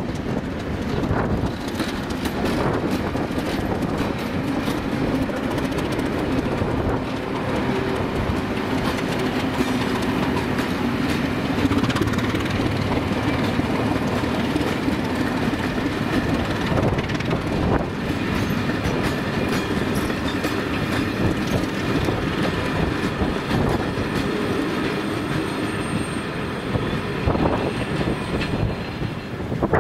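Passenger train passing close by over a level crossing: a steady rumble of coaches with the clickety-clack of wheels over rail joints.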